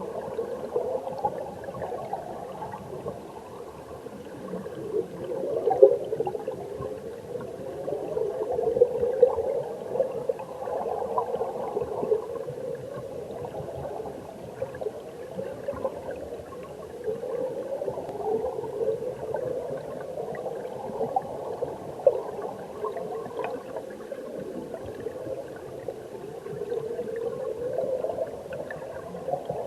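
Mountain stream heard underwater through a submerged camera: a steady bubbling, gurgling rush of flowing water, muffled and low, that swells and eases every few seconds, with small clicks of bubbles or pebbles.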